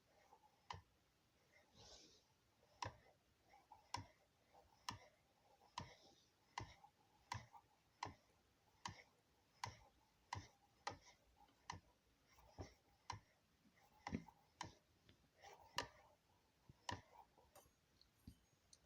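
Homemade low-temperature-difference Ringbom Stirling engine running, with sharp clicks about once a second at a slightly uneven pace, some coming in close pairs. The clicks are typical of a Ringbom engine's free displacer knocking against its stops.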